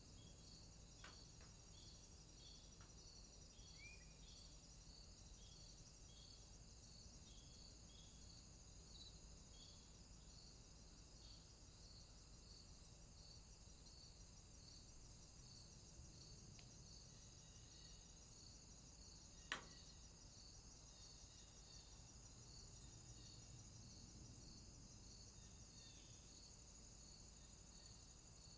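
Faint insects chirping: a steady high trill with regular high chirps about one and a half times a second. A single sharp click about two-thirds of the way through is the loudest moment.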